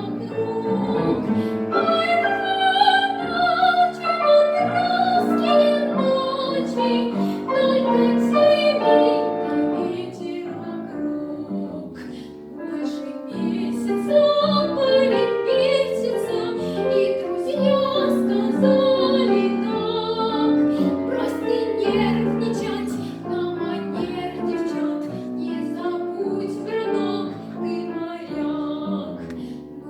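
A girl's solo singing voice in a trained, classical style with vibrato, accompanied by piano.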